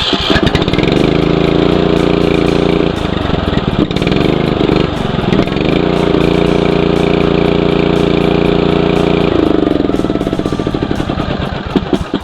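The new Briggs & Stratton Intech 11.5 hp overhead-valve engine on a 1989 Snapper rear-engine riding mower starting up and revving, dipping and picking up again about four seconds in, then running steadily. Near the end its pitch falls and it winds down to a stop.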